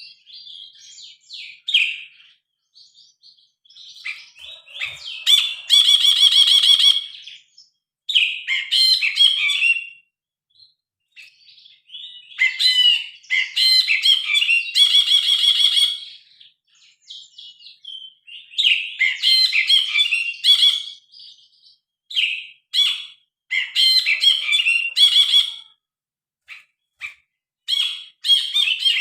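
Brinji kelabu (cinereous bulbul) singing: loud, varied chattering phrases in bursts with short pauses, twice breaking into a fast buzzy trill lasting a second or two.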